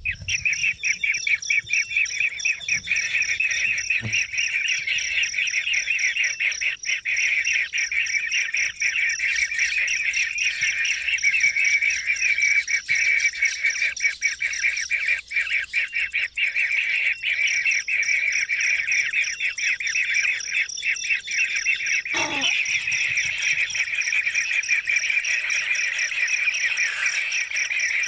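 A steady, high, finely pulsing chorus of insects, with bird chirps mixed in. About 22 seconds in, a brief falling sweep is heard.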